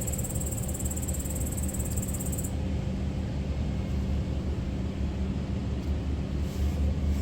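Steady low outdoor rumble, with a high insect trill that stops about two and a half seconds in.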